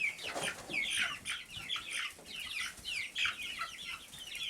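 A flock of young chickens peeping, with many short, high chirps falling in pitch and overlapping one another.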